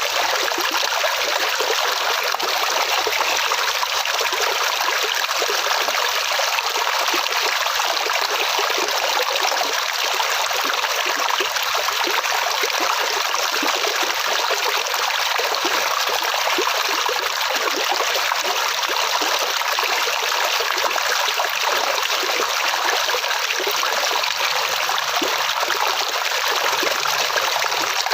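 Flowing water in a stream, a steady rushing and trickling, even and unbroken.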